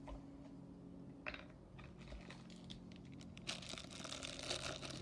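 Plastic packaging being handled: a few sharp clicks, then a dense crinkling and crackling during the last second and a half.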